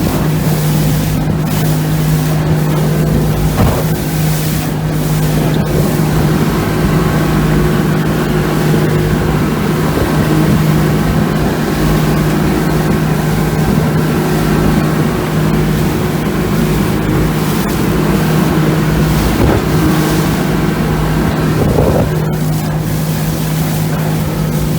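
Boat engine running at a steady speed under way, a constant drone, with wind buffeting the microphone.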